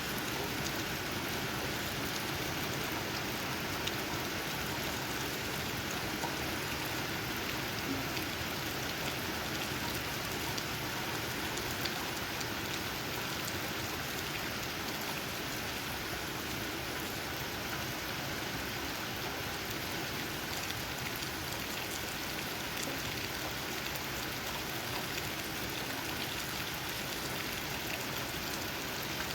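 Steady rain falling, with raindrops tapping on leaves as a continuous hiss dotted with faint drips.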